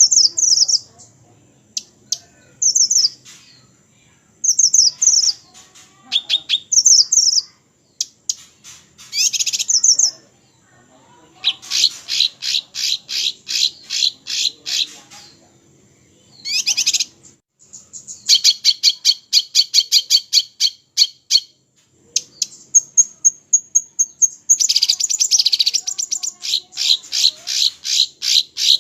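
Small songbirds singing. For the first ten seconds it is phrases of short, high chirps about a second apart. After that come long runs of rapid trilled notes, with one held high whistle between them.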